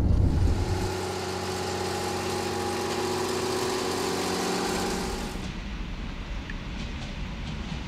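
Electric train running: a steady hum with a hiss over it, which drops to a lower, thinner rumble about five seconds in.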